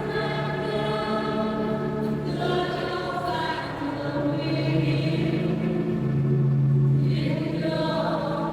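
A choir singing a slow hymn in long held notes, several voices together.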